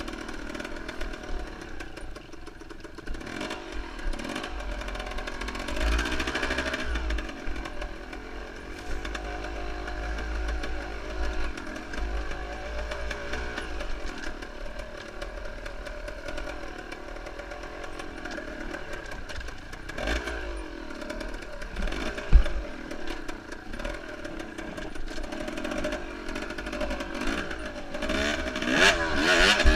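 Enduro motorcycle engine running and revving up and down as the bike is ridden over rough ground. There is one sharp knock about two-thirds of the way through, and the revs climb steeply near the end.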